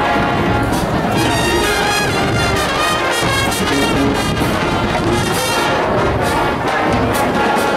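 A high school marching band playing: brass (trumpets and trombones) over drums.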